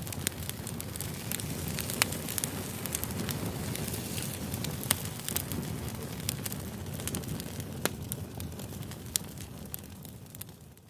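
Campfire burning: a steady low rumble with scattered sharp crackles and pops, the loudest about 2 and 5 seconds in. It fades out near the end.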